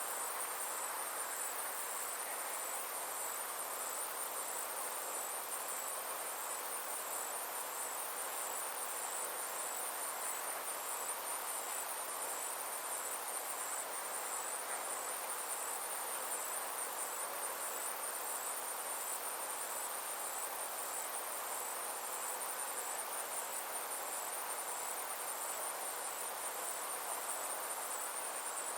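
Insects chirping in a steady, high, evenly pulsing trill, with a soft even hiss underneath.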